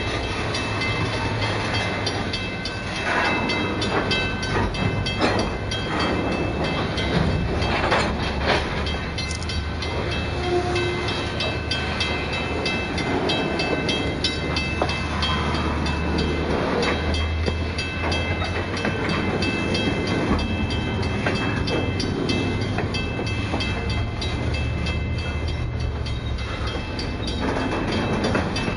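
Freight train cars, boxcars and a covered hopper, rolling past close by: a steady rumble with repeated clacking of the wheels over the rail joints.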